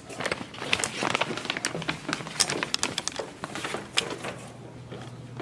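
Footsteps going down wooden stairs, mixed with the knocks and rustle of a hand-held camera being carried: a run of irregular clicks and thumps.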